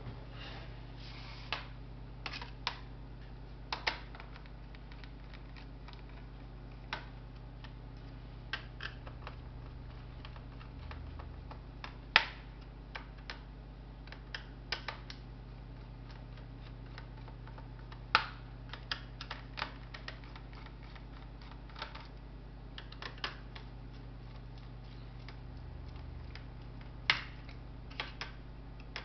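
Irregular small clicks and taps of laptop parts and tools being handled during disassembly, with a few sharper clicks, over a steady low hum.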